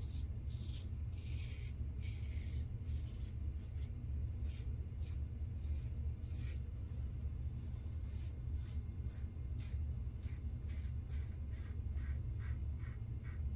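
Safety razor scraping through shaving lather and stubble in a run of short strokes, one to two a second and quicker near the end, over a steady low hum: the final pass of a wet shave.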